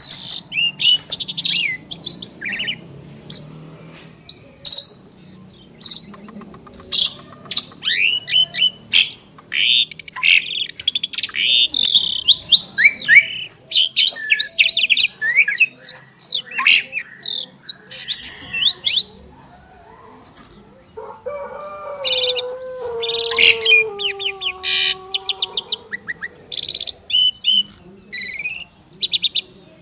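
Two Asian pied starlings (jalak suren) singing in duet: a dense stream of rapid, varied chirps, trills and sharp whistles. About two-thirds of the way through comes a lower, drawn-out call that falls in pitch.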